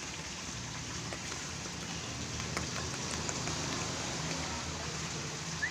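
A steady hiss like rain falling, with scattered faint ticks. A bird's whistled, gliding note starts right at the end.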